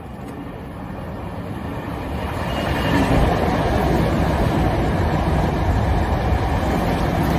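Hankyu 1000 series electric train running through a station at speed without stopping. Its running noise swells over the first three seconds as it draws near, then holds steady as the cars pass close by.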